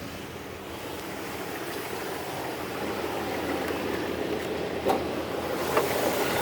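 Dodge Dakota's 3.7-litre V6 idling, a steady rushing noise that grows gradually louder, with a couple of short knocks near the end.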